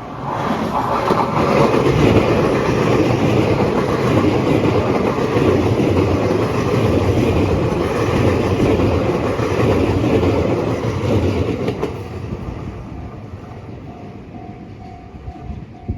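Electric passenger train passing close by, loud for about twelve seconds and then fading as it moves away. A level-crossing warning bell rings in a steady repeating pattern; the train drowns it out, and it is heard again near the end.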